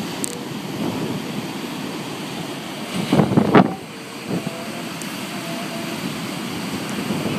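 Storm wind blowing across the microphone over the steady rush of surf, with a louder burst about three seconds in.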